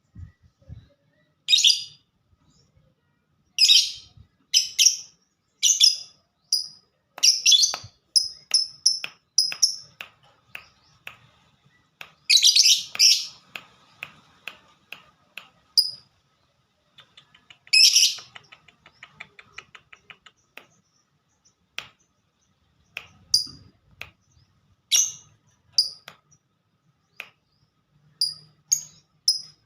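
Lovebird singing: loud harsh screeching calls broken by short sharp chirps. Twice it runs into a fast train of ticks like typing (the 'ngetik' song prized in fighter-type lovebirds).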